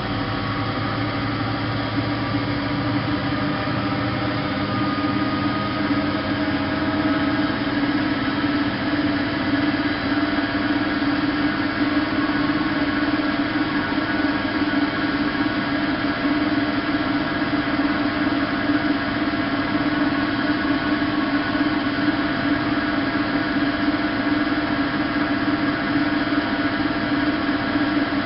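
Bosch WFK 2431 front-loading washing machine running, its motor and drum giving a steady hum with a whine that rises in pitch over the first several seconds and then holds steady.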